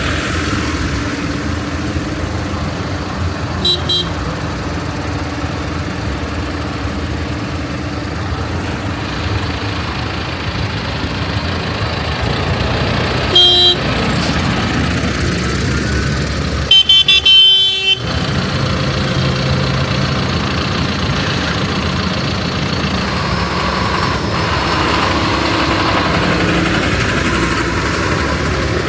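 Tractor engines running steadily as the tractors go past, with horn honks over them: a short toot, a louder honk near the middle, and then a rapid string of honks, the loudest sound.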